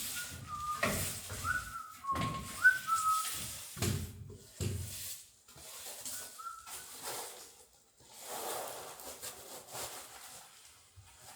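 Whistling: a short run of steady notes stepping up and down in pitch, then a brief pair of notes a few seconds later, among scattered knocks and handling noises.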